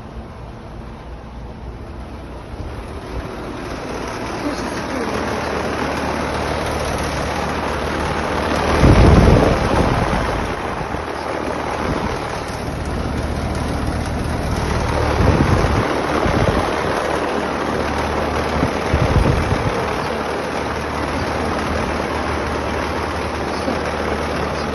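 Central air conditioner condensing unit running: a steady rush of air from its fan over a low hum. The rush builds over the first few seconds and surges louder about nine seconds in, and again twice later.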